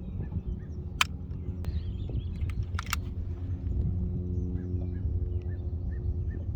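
Boat motor running with a steady hum, with a sharp click about a second in and another near three seconds.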